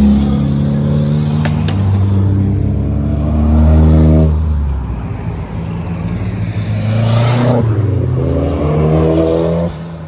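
Modified Japanese performance car engine revving hard as the car accelerates away, the pitch climbing to a peak about four seconds in before it cuts off sharply. A second rising rev follows and is cut off near the end.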